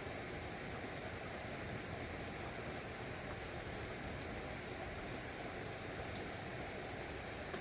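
Steady rain falling: an even hiss of rainfall, fullest in the lower range, with no thunder or separate drops standing out.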